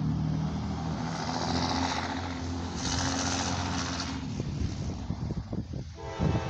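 Approaching diesel freight train, a steady roar of locomotive engines. About six seconds in, the locomotive horn begins sounding a chord.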